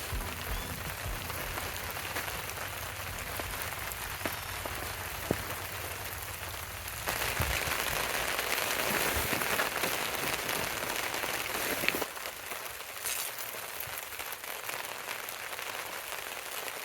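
Rain mixed with hail falling steadily on surfaces, an even hiss with scattered small ticks. It turns louder and brighter about seven seconds in and drops back about twelve seconds in.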